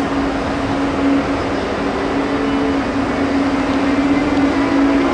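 Electric train running at a station platform: a steady hum with a second, higher tone coming and going, over the noise of the train.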